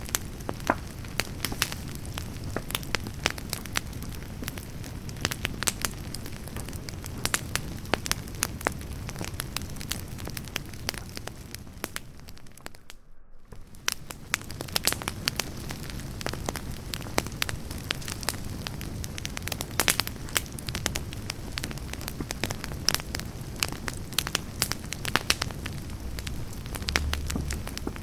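Wood campfire burning: a steady low rush of flames with frequent sharp crackles and pops from the burning logs. The sound briefly drops out about halfway.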